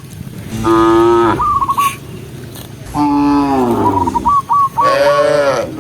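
Cows mooing: three separate moos, the second falling in pitch and the last rising then falling, with short high chirping notes between them.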